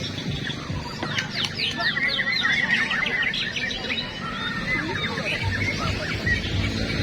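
Many caged songbirds singing at once: dense overlapping chirps, trills and quick whistled glides, with a low crowd murmur underneath.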